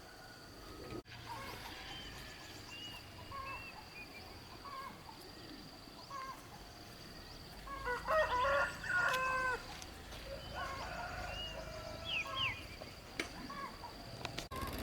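Chickens clucking in short repeated calls, with a louder run of calls about eight seconds in, over a steady high-pitched whine.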